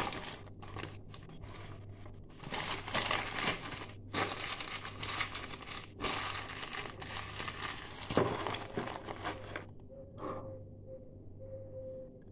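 Packaging crinkling and tearing as it is handled, in irregular rustling bursts that stop about ten seconds in. A faint steady tone follows near the end.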